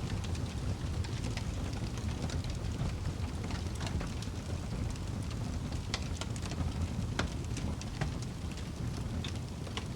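Wood fire burning in a fireplace: a steady low rumble of flames with irregular sharp crackles and pops from the burning logs, a few louder ones around six, seven and nine seconds in.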